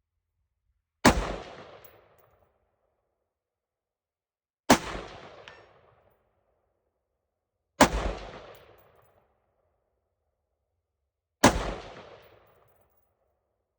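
Four single rifle shots, a few seconds apart, each with a sharp crack and a trailing echo. They are slow aimed fire at a 200-yard steel plate to check a newly bore-sighted scope's zero.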